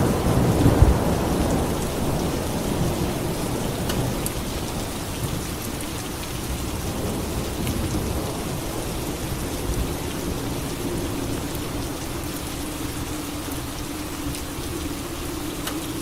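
Steady rain with a roll of thunder that fades away over the first few seconds.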